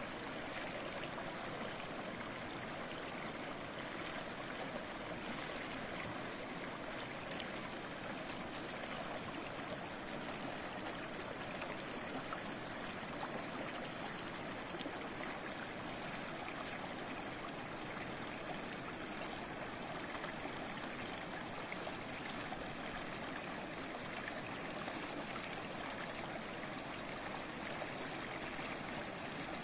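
Babbling stream: a steady, even rush of flowing water with no breaks or single splashes.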